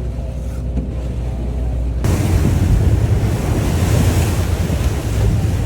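Wind and rushing water on a moving boat: a steady low rumble, then about two seconds in a sudden loud rush of wind buffeting the microphone over the water noise.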